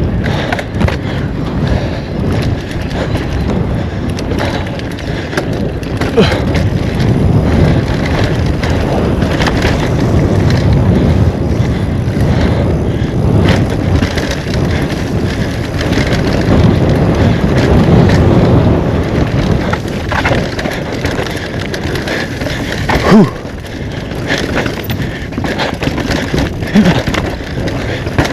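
Mountain bike descending a rough, wet dirt trail: a steady rumble of tyres over dirt and rocks, with the bike rattling, wind buffeting the microphone, and a sharp knock about 23 seconds in.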